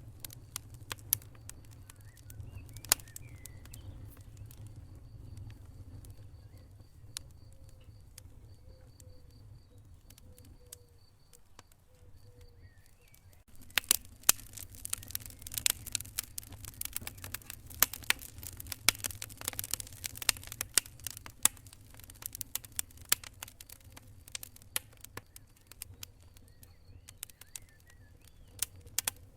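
Wood fire in a fireplace crackling and popping over a low steady rumble. Scattered pops give way about halfway through to a dense, louder run of crackling for several seconds, which then thins out again.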